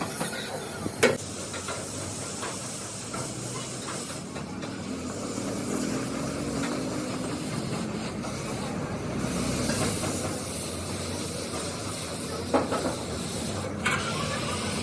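Steady workshop background noise with a few sharp knocks, the loudest about a second in and two more near the end.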